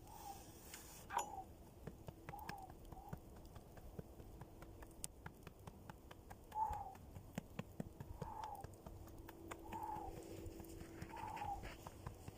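A bonfire crackling with frequent small sharp pops. A bird repeats a short falling call every second or two.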